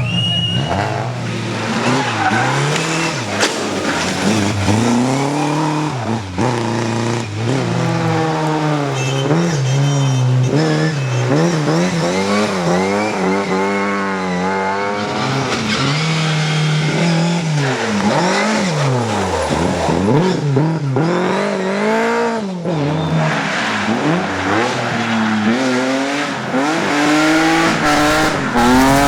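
Rally car engine revving hard, its pitch climbing and dropping again and again through gear changes and lifts, with tyres squealing at times.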